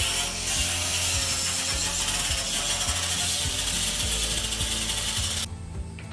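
A power tool working wood, with a rasping, ratchet-like mechanical noise, over background music. The tool sound cuts off abruptly near the end.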